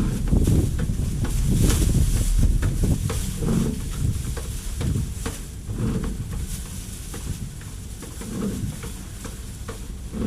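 Putty mixed with hardener being kneaded with a spatula: irregular stirring and scraping strokes with scattered clicks, louder in the first few seconds.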